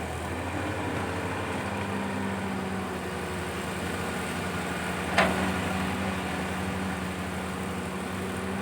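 Diesel engine of a CAT 320 hydraulic excavator running steadily, with a single sharp knock about five seconds in.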